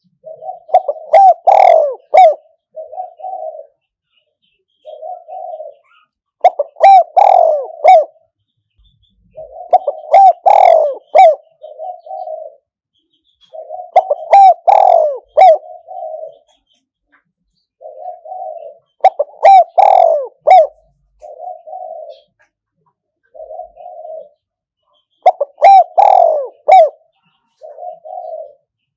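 Spotted dove cooing: a decoy bird's call phrase of low, rolling coos repeated about six times, every four to six seconds, with a few notes in each phrase much louder than the rest.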